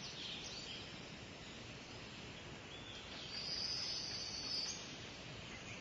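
Outdoor ambience: a low, even hiss with scattered short bird chirps. A high, steady buzz comes in for about a second and a half in the middle.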